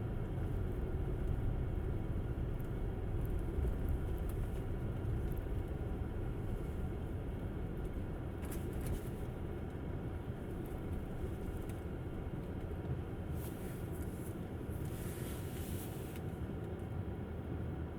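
Steady low rumble of a Tesla Model S's tyres and road noise while driving on a snowy road, with a brief hiss about halfway through and a longer one near the end.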